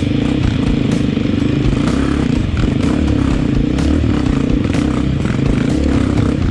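A dirt bike engine running close to the microphone at a fairly steady pitch, with scattered knocks and clatter.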